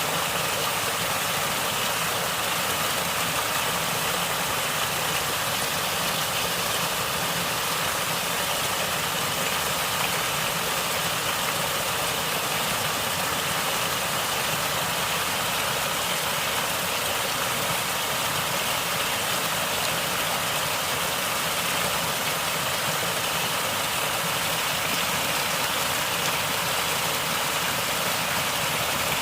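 Natural flowing water gurgling and rushing in a steady, unchanging stream.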